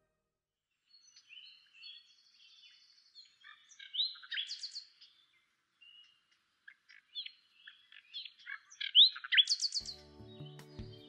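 A bird singing a varied song of short chirps, chatters and quick rising whistles, in separate phrases with gaps between them. Music comes in near the end.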